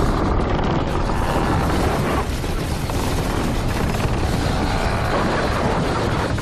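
Loud, steady, deep rumbling of an earthquake, a dense noise without separate impacts.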